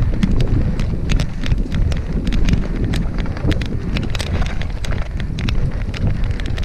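Mountain bike riding fast down a dirt trail: wind rumbling on the microphone, with frequent irregular clicks and rattles of the bike over rough ground.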